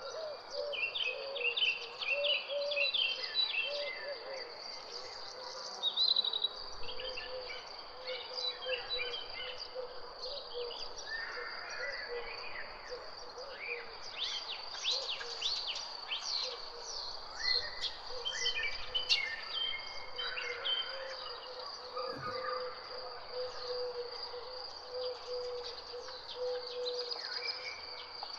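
Several birds singing and calling together, with quick chirps and trills overlapping, over a steady high-pitched insect drone.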